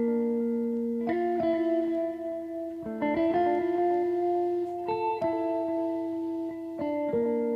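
Music played on a clean electric guitar: slow, ringing chords picked one after another, each held a second or two before the next.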